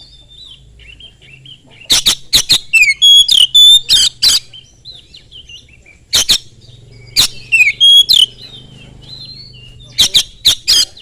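Oriental magpie-robin (kacer) singing loudly in three bursts, about two, six and ten seconds in. Each burst mixes harsh rasping notes with short clear whistles.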